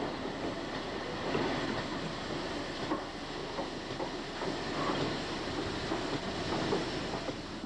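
Steam train on the move: a steady rush of running noise with irregular knocks and wheel clatter.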